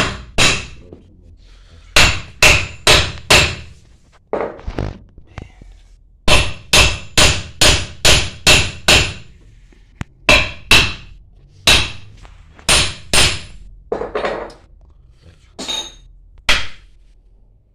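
Hammer blows on metal in quick runs of two to seven strikes, each with a short metallic ring, driving a part home onto a booster pump's shaft.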